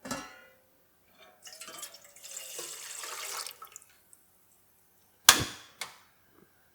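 Water pouring for about two seconds, then a sharp knock followed by a lighter one.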